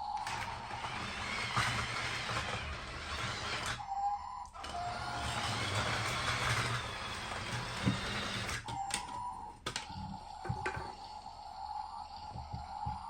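LEGO toy train running on its plastic track, a motorised whirr and rattle that drops out briefly about four seconds in and again near nine seconds.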